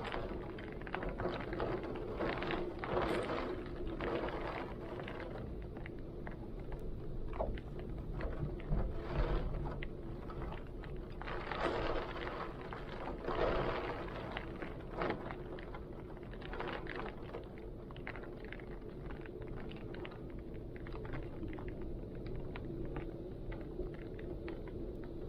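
Heavy rain with strong gusting wind, a steady low rumble under many brief patters, swelling in several gusts.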